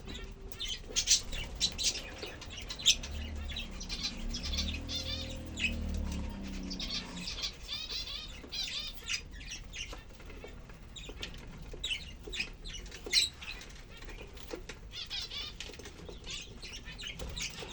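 Lovebirds chirping in many short, high, sharp calls, with wings flapping and rustling as they squabble over nesting material.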